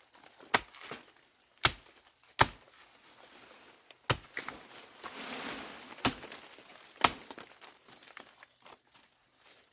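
Sharp blows on wood, six of them at uneven intervals, with a short rustle a little after the middle.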